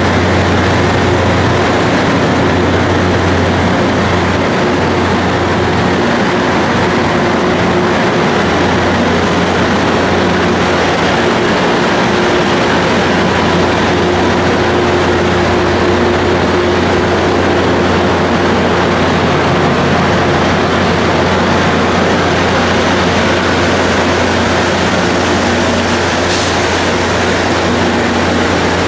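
Train passing close by: a steady, loud rolling rush with a low hum underneath.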